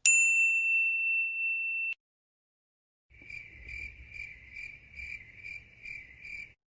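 A single high tone that starts sharply, holds for about two seconds and cuts off. After a second of silence comes a cricket chirping effect, softer, with even chirps about two to three a second for over three seconds: the stock 'crickets' gag sound for an awkward silence.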